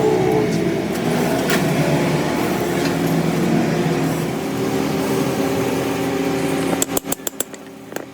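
Lathe running with a steady motor sound. About seven seconds in come several sharp clicks, and the sound drops quieter.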